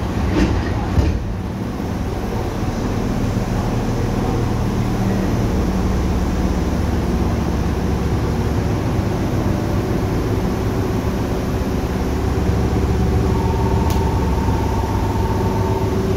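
Tokyu 8500 series electric train running, heard from inside the car: a steady rumble with the hum of its Hitachi traction motors. There are a few sharp knocks in the first second, and a steady higher tone comes in about three seconds before the end.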